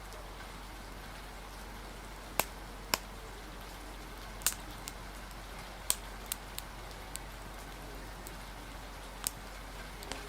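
Steady rain hiss with irregular sharp pops and crackles of a wood fire, about ten in the stretch.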